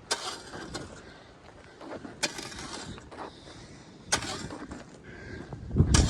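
Footsteps crunching in snow, about five steps at uneven spacing. A low rumble of wind on the microphone comes near the end.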